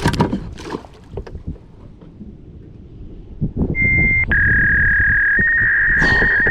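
Several sharp knocks and clatter of handling gear on a kayak, then a loud, steady, high-pitched tone that starts a little past halfway, steps down and back up in pitch, and holds as the loudest sound.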